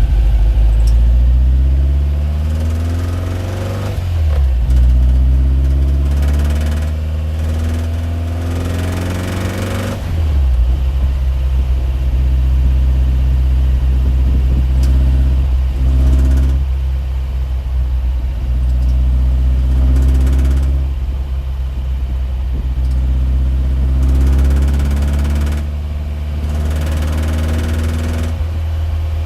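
A motor vehicle's engine running steadily, its pitch rising and falling a few times.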